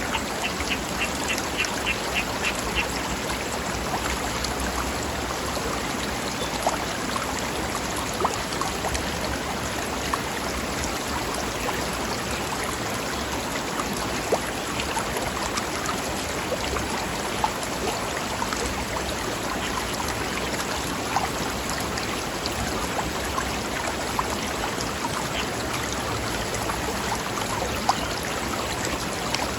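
Mountain stream flowing over rocks, a steady rush of water with small splashes and drips. Near the start a bird calls in a quick run of short notes.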